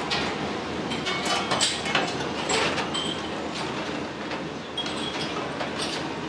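Restaurant kitchen clatter: a steady noise with many quick clinks and knocks of dishes and utensils, and a couple of short metallic rings.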